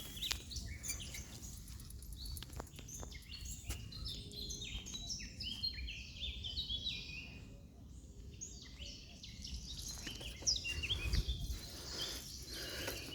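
A flock of small birds chirping, many short high calls overlapping continuously, over a low background rumble.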